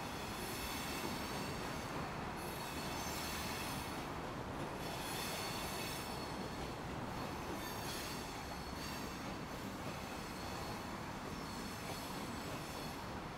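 Freight train of tank cars rolling past with a steady rumble, its wheels squealing in high, thin tones that swell and fade every couple of seconds.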